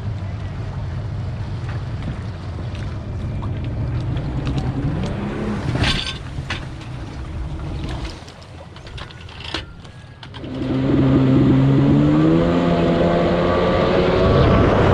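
Kawasaki X2 jet ski's 650 cc two-stroke engine running on the water, with two sharp knocks midway. It eases off and goes quieter for a couple of seconds, then from about ten and a half seconds in it is opened up hard, its pitch climbing steadily as the craft accelerates.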